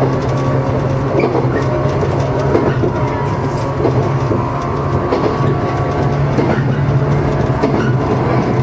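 JR East 115 series electric train running along the track, heard from behind the driver's cab: a steady low hum and rumble, with scattered clicks of the wheels over the rails.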